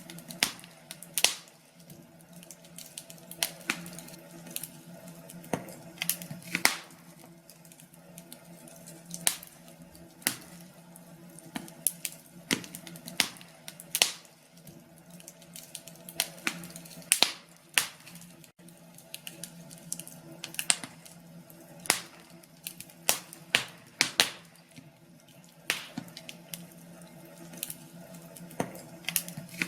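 Log fire crackling, with sharp pops and snaps at irregular intervals over a low steady hum.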